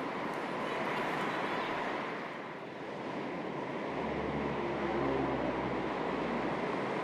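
Calm sea waves lapping gently on the shore, with a light breeze. A low steady drone joins about four seconds in.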